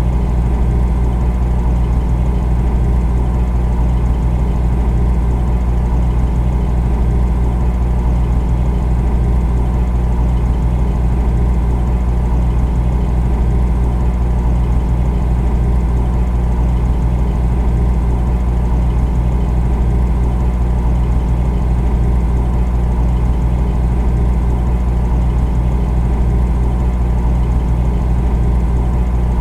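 Refrigerator running with a steady, deep hum and a few fainter steady tones above it, unchanging throughout.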